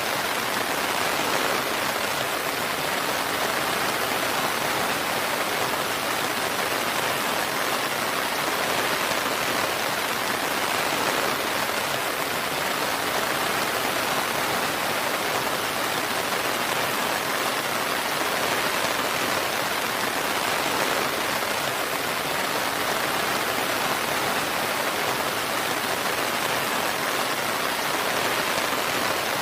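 Steady rain falling, an even hiss of many drops with no changes.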